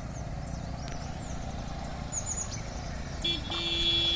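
A vehicle horn sounds about three seconds in, one steady note held for about a second, over the steady low rumble of an engine running.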